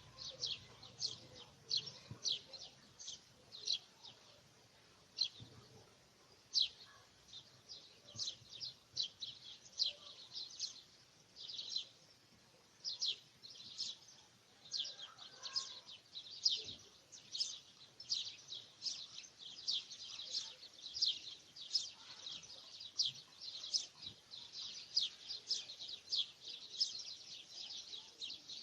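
Birds chirping: a steady run of short, high chirps, several a second, growing denser in the second half.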